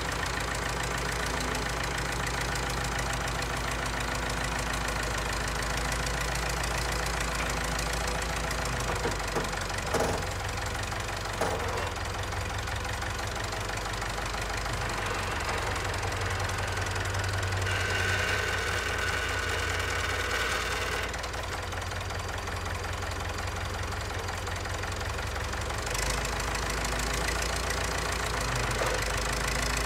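Engine of a heavy yard machine running steadily, with two sharp clanks about ten seconds in and a higher whine for a few seconds past the middle.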